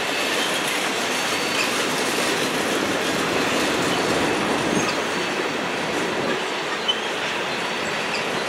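Covered hopper cars of a freight train rolling past at trackside: a steady rumble and rattle of steel wheels on rail, with a few short, faint high squeaks.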